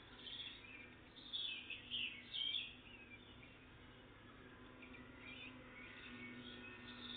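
Small songbirds calling and singing: a quick burst of high chirps and twitters about a second in, then fainter scattered calls.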